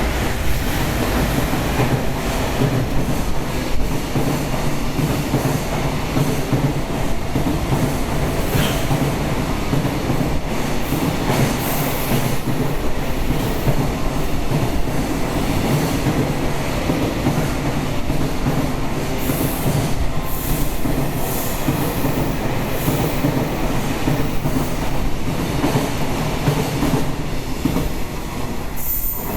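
Train running through a station without stopping: a loud, steady rumble of wheels on rail with clattering over the joints and a few brief high wheel squeals.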